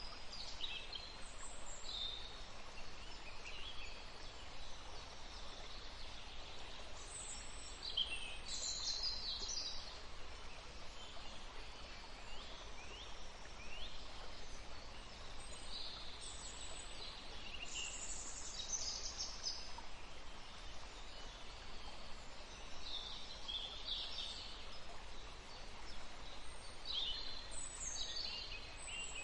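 Wild songbirds chirping and singing in short high-pitched phrases and trills, coming in clusters with brief lulls, over a steady background hiss.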